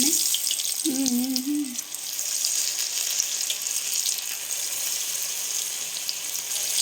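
Potato-and-onion pakora batter deep-frying in hot oil: a steady sizzle full of small crackles.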